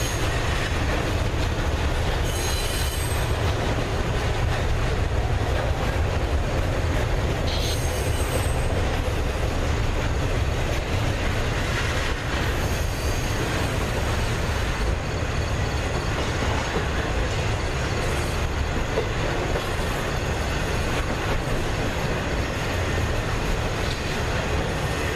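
A train rolling past: a steady rumble of wheels on rail, with short high-pitched wheel squeals a few times in the first half.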